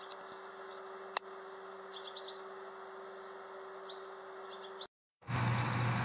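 Fledgling birds chirping faintly in a few short, high twitters over a steady low hum, with one sharp click about a second in. Near the end the sound drops out briefly and gives way to a louder steady low hum.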